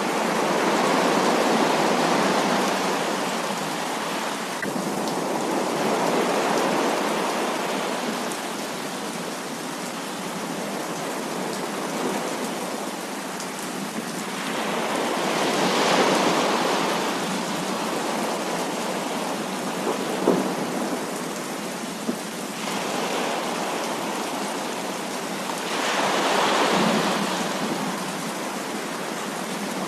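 Heavy rain falling steadily through a thunderstorm, with thunder rumbling and swelling up four times, each swell lasting a few seconds.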